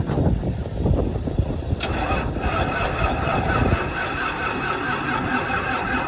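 Tractor engine running, with a steady machine whine setting in about two seconds in over the low rumble.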